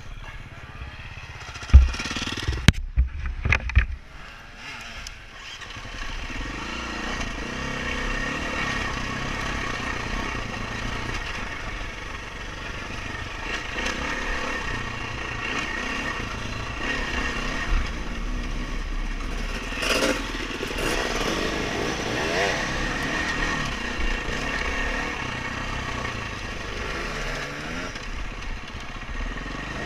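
A few sharp knocks in the first seconds, then a dirt bike engine running, its revs rising and falling as the bike is ridden.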